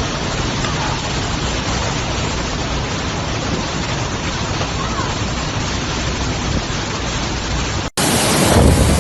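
Very strong wind blowing as a steady, unbroken rush of noise. About 8 s in it cuts off abruptly, and louder wind buffets the microphone.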